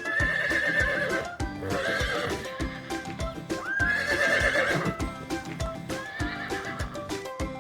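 A horse neighing four times, each whinny a wavering, trembling call about a second long, over background music with a steady beat.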